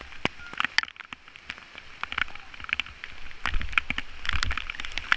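Rain falling, heard as many irregular sharp drop ticks close by. A low rumble joins about three and a half seconds in.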